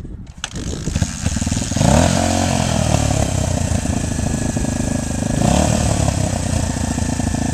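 Dirt bike engine running and being revved, rising in pitch about two seconds in and again about five and a half seconds in.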